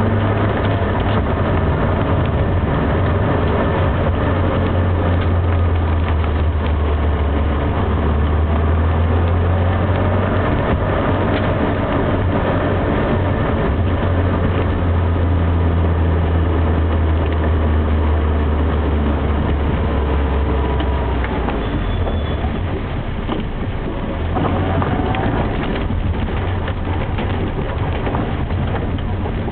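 Classic Mini's four-cylinder engine running under way, heard from inside the cabin over steady road noise. The low engine drone eases off about two-thirds of the way through, then picks up again.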